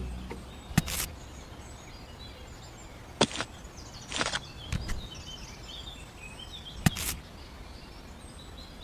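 Outdoor background noise with faint bird chirps and four short, sharp noise bursts spread through it.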